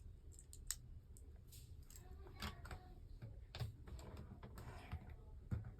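Faint, irregular clicks of plastic Lego pieces being handled and fitted together.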